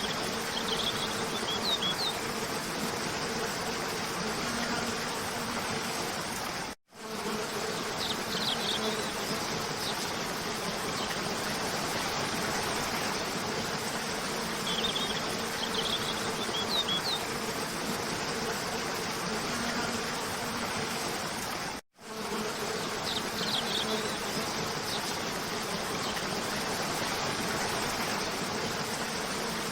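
Waterfall rushing steadily under a low, even buzz, with small clusters of bird chirps every few seconds. The sound cuts out for an instant twice, about 7 s and 22 s in, where the loop repeats.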